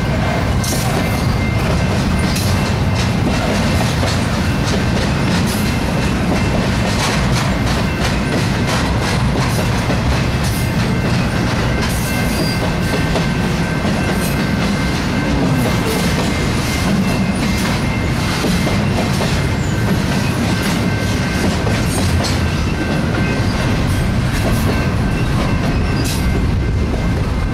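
BNSF double-stack intermodal freight train's well cars rolling past: a steady rumble of steel wheels on rail with irregular clicks and clanks over the rail joints, and a faint steady high ring.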